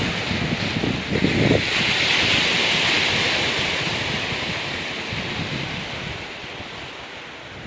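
Sea waves washing in on a rocky beach: a wave's hiss swells about two to three seconds in and then fades away. Wind buffets the microphone with low rumbling gusts in the first second or so.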